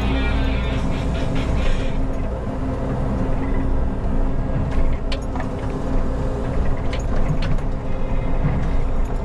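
Diesel engine of a Menzi Muck walking excavator running steadily under work, with sharp metallic knocks and clanks from about five seconds in. Background music fades out about two seconds in.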